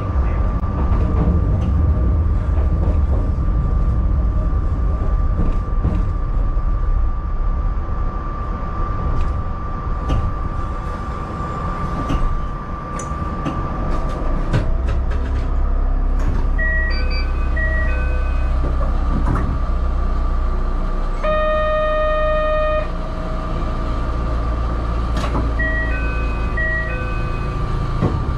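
Cab of a 762 mm narrow-gauge electric train (formation 261F): running rumble with a steady high whine as it rolls along the platform, easing to a low steady hum once it stands still about halfway through. While standing, two short phrases of electronic chime notes sound, and between them a buzzer tone held for about a second and a half.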